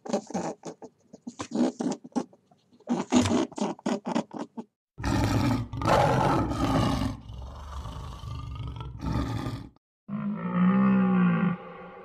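Animal calls in three parts. First, about five seconds of short, quick sounds from a rabbit. Then a big cat's loud growl lasting about five seconds, and near the end a red deer's low moaning call that rises and falls in pitch.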